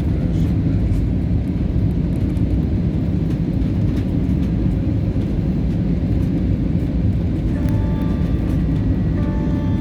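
Steady low rumble of airliner cabin noise in flight, even and unbroken. Faint thin steady tones join in near the end.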